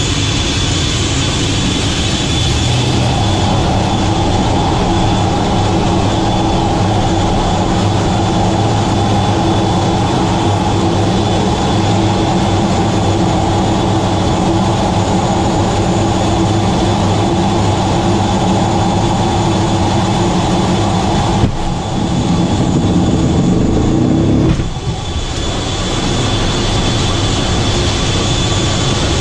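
Sukhoi Su-35S fighter jet's turbofan engines running steadily, a dense rushing noise with a high whine over it. The sound shifts abruptly twice near the end.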